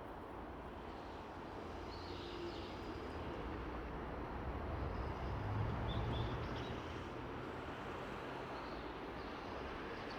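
Low rumble of a passing vehicle, swelling to its loudest around the middle and then easing off, over steady outdoor noise. Short, faint calls of small birds come a few times: early on, near the middle and near the end.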